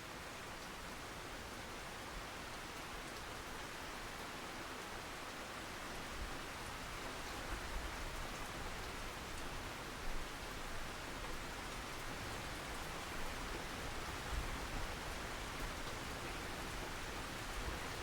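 Steady rain, an even hiss that gets a little louder after about six seconds, with a few brief louder drops or soft thumps.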